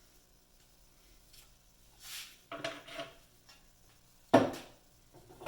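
Metal hand tools and parts being handled and set down: a few light clinks, then one sharp metal clank about four seconds in.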